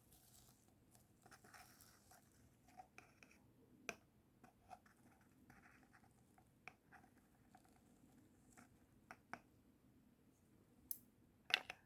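Faint scratching and scattered light ticks as the inside wall of a small plastic terrarium container is wiped clean.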